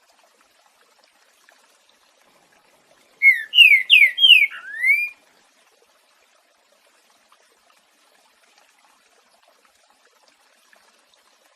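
Green-winged saltator (trinca-ferro) singing one short phrase of its 'boiadeiro' song: about five loud, clear whistled notes, the first four slurring downward and the last rising, lasting about two seconds, a few seconds in. A faint trickle of water runs underneath.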